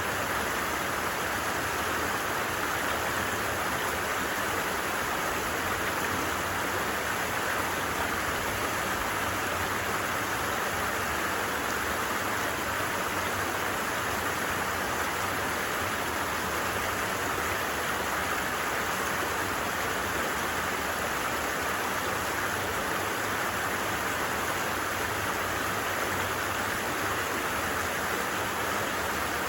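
A stream flowing with a steady, even rush of water.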